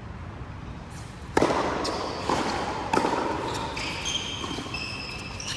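Badminton doubles rally in a hall: three sharp racket strikes on the shuttlecock, the first about a second and a half in, each ringing briefly in the room. Short high squeaks of court shoes follow near the end.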